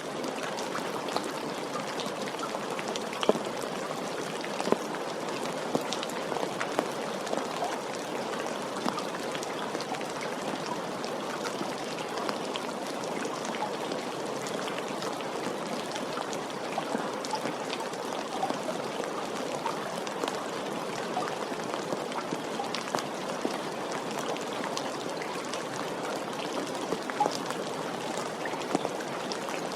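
Steady rain: an even hiss with many separate drops ticking through it, a few of them louder.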